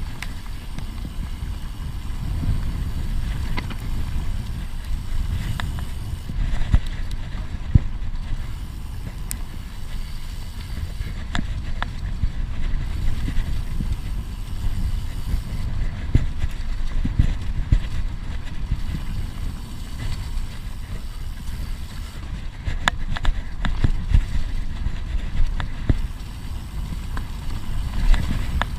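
Bird Aeris AM9 mountain bike being ridden over rough trail: wind buffeting the camera microphone and tyre rumble, with scattered clicks and knocks from the bike rattling over bumps.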